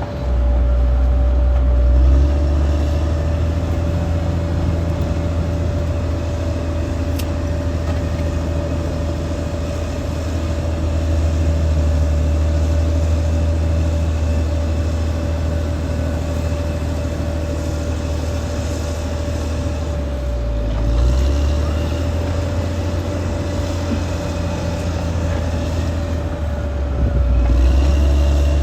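Caterpillar D6R XL bulldozer's diesel engine running under working load, a steady low drone with a constant whine on top. The engine note dips and shifts briefly about two-thirds of the way through and again near the end, as the load on the machine changes.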